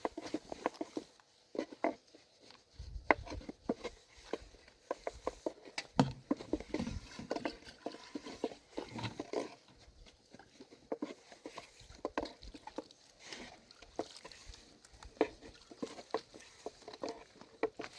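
Irregular light knocking and tapping, many small strikes close together with no steady rhythm, and a few heavier thumps.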